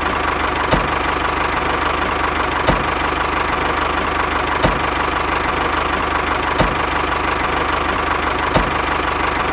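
Engine idling steadily, with a short tick about every two seconds.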